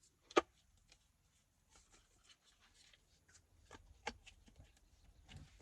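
Handling noise of a cup and other small items being put back into a bag: one sharp knock about half a second in, then soft rustling and a few light clicks.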